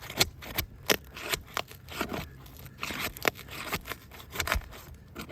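Vogeler roof shingles being pried and peeled apart, with irregular crackling, scraping and small snaps as the stuck layers tear loose. The shingles are bonded to each other by mat transfer, which is why one will not slide out from under the next.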